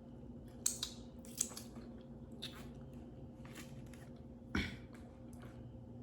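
Faint chewing and crunching of someone eating: a few short, scattered mouth clicks and bites, with a slightly louder one a little past the middle, over a steady low hum.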